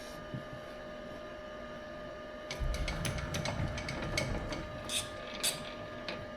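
A steady machine hum of a few fixed tones; about two and a half seconds in a low rumble starts, with a run of sharp mechanical clicks and knocks over it.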